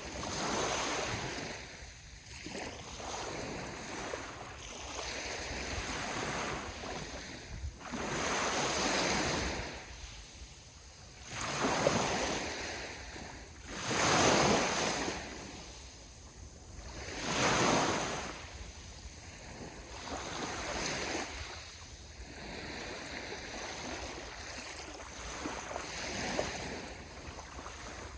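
Ocean waves breaking on the shore, each one swelling into a rushing wash and ebbing away every few seconds, with wind on the microphone.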